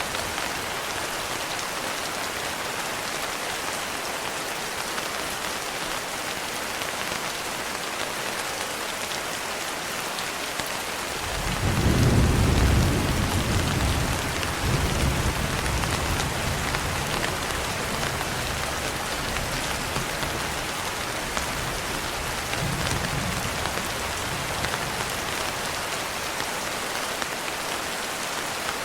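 Steady rain pattering on a window, with a roll of thunder about eleven seconds in that swells, peaks and dies away over several seconds, and a fainter rumble of thunder later on.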